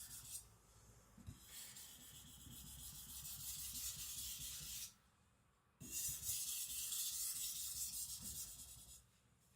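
Hard AEB-L steel gyuto blade drawn across a whetstone in two long, steady strokes of about three seconds each, a gritty high hiss with a short pause between them.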